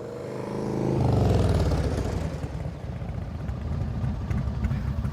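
Motorcycle engine growing louder and dropping in pitch, then settling into a low, steady rumble.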